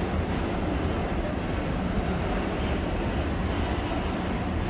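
Freight wagons loaded with steel coils rolling past: a steady rumble of steel wheels on rail.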